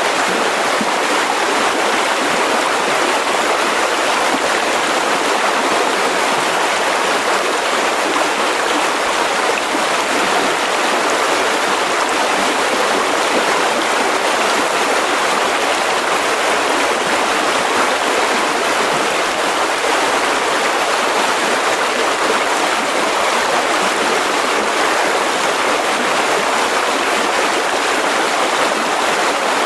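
Mountain river rushing steadily over rocks, a continuous even roar of flowing water.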